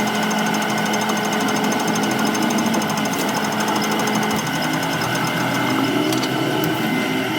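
A metalworking machine running steadily, with a fast, even chatter over a constant hum.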